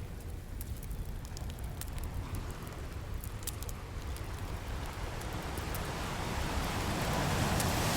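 Ocean waves and a crackling campfire. A steady low surf rumble carries a wave that swells in and peaks near the end, over a few sharp pops from the burning wood in the first half.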